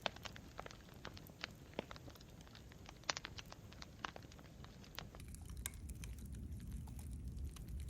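Campfire crackling, with irregular sharp pops and snaps of burning wood over a low rumble. The rumble grows louder about five seconds in.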